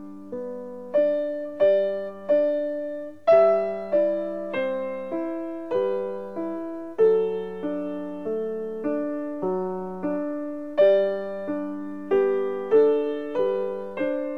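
Background piano music: a slow, gentle run of single notes and chords, each struck and left to fade.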